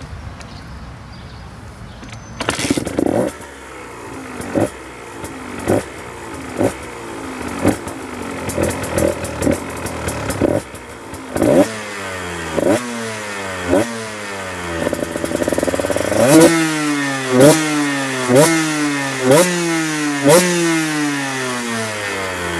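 KTM 125 two-stroke dirt bike engine with a full HGS carbon exhaust, starting up about two seconds in and then revved in sharp throttle blips, roughly one a second, each rev jumping up and falling back; the blips get louder in the second half.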